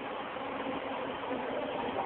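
SkyTrain train arriving at a station, its linear induction motors giving a steady hum over rolling noise that slowly grows louder as it approaches.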